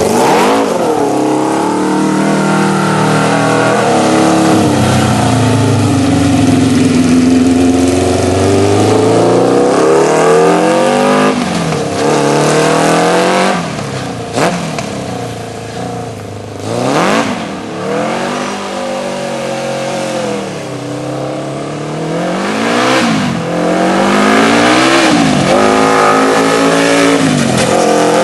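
Kawasaki KZ650 air-cooled inline-four motorcycle engine driving a go-kart. Its pitch climbs under throttle and falls back several times, with sharp drops between the climbs.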